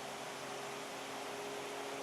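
Steady, even outdoor hiss with a faint steady hum underneath; nothing stands out from it.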